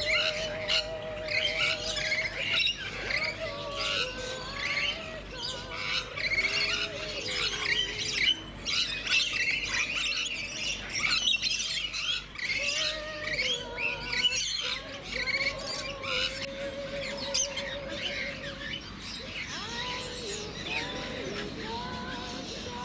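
Many aviary birds calling at once: overlapping squawks and chirps, busiest in the first half, with wavering whistled notes running under them.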